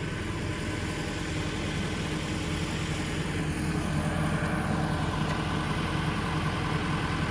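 A farm machine's diesel engine running steadily, growing a little louder about four seconds in.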